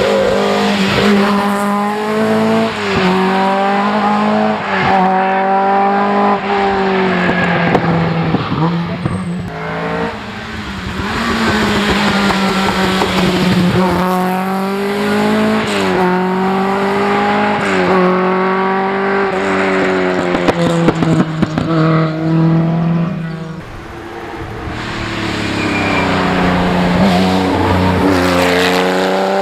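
Group B rally car engine revving hard, its pitch climbing and dropping again and again as it accelerates, shifts and lifts, with brief lulls about a third of the way in and again near the end.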